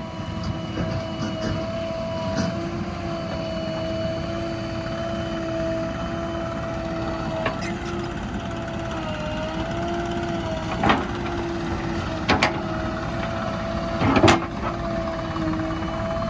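JCB 3DX backhoe loader's diesel engine running steadily with a constant whine, and three sharp knocks in the second half, the loudest near the end.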